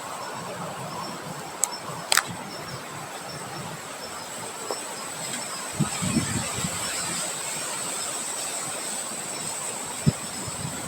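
Steady outdoor nature ambience: an even hiss with a thin, steady high whine over it, two sharp clicks about two seconds in, and a few low thuds around six seconds and again near the end.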